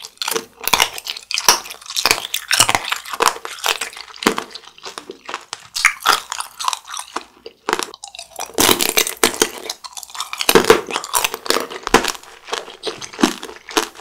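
Biting and chewing of Shine Muscat grapes: a dense run of quick, crisp crunching sounds.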